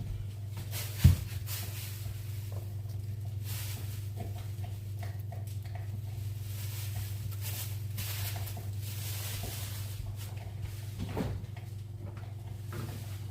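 Pots and utensils being handled while cooking: one sharp knock about a second in, then scattered light clicks and scrapes, over a steady low hum.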